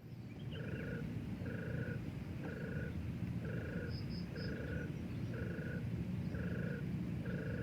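An animal call repeating about once a second in short, even pulses, over low background rumble. Three faint high chirps come about halfway through.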